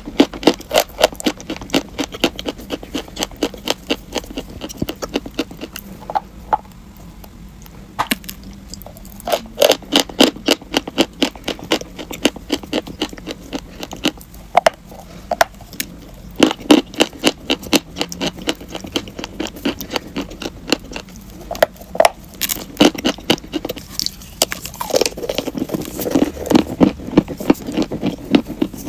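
Close-up crunching of chalk being bitten and chewed: runs of sharp, rapid crunches broken by a few short, quieter pauses.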